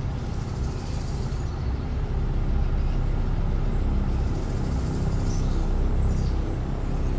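An old sedan's engine running steadily at low speed, a low rumble, as the car rolls slowly over a grassy track.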